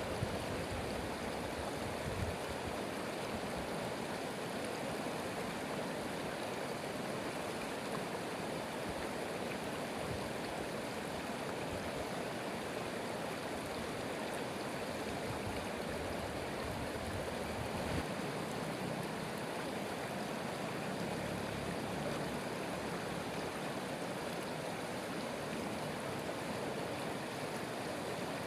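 Flowing stream or river water rushing steadily.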